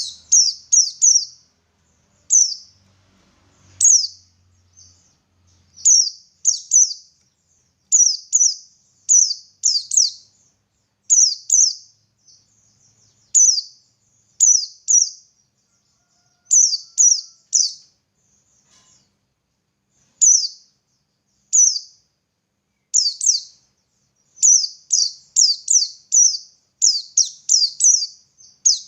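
White-eye (pleci) calling: short, high, downslurred chirps, singly and in quick runs of two to four, with short pauses between runs.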